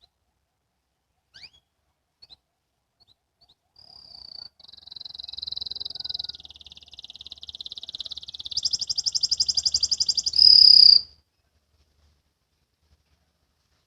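Domestic canary singing one song phrase: a few scattered chips, then trilled rolls that grow louder, a very fast trill, and a loud clear note that cuts off about eleven seconds in.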